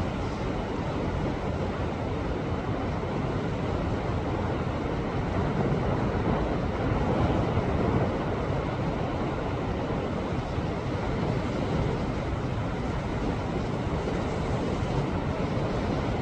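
Sea waves washing against a rocky shore: a continuous rush of surf that swells a little in the middle.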